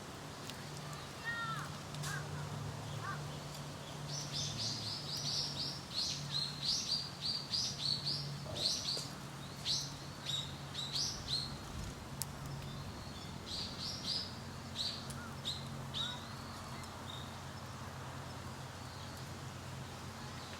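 A bird calling in quick runs of short, high chirps, about four a second. There are two runs: a long one early on and a shorter one a few seconds later. A faint low hum lies underneath.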